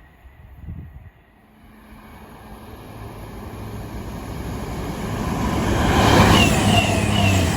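A train approaching on the main line, its rumble building steadily over several seconds to a loud peak about six seconds in. A low steady drone runs underneath, and short high falling whines repeat as it passes.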